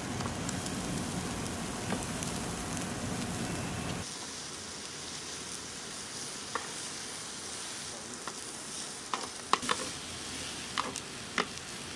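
Oyster mushrooms sizzling in oil on a hot grill pan. The sizzle is louder for the first four seconds, then softer and steady, with a few light clicks near the end.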